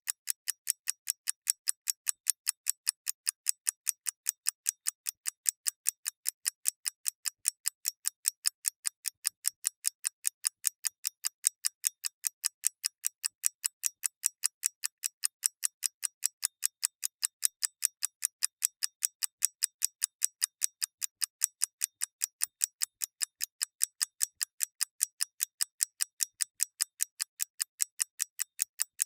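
A mechanical clock ticking: crisp, light, evenly spaced ticks, about three a second, keeping a steady unbroken rhythm.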